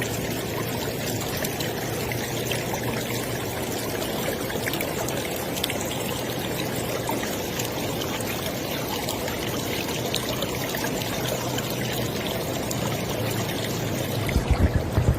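River water flowing in a steady, even rush with trickling and splashing. Near the end an uneven, louder low rumble comes in.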